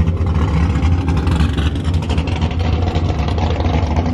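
A car engine running steadily, a continuous low drone with a faint hiss of traffic noise over it.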